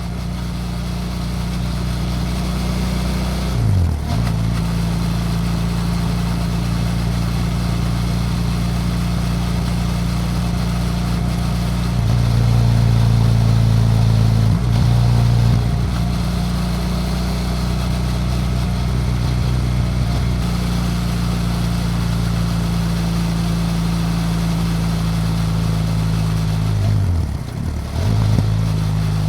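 Onboard sound of a BMW F800GS Adventure's parallel-twin engine under way, running steadily over wind hiss. The engine note dips and picks up again twice, about four seconds in and near the end, and runs louder for a few seconds in the middle.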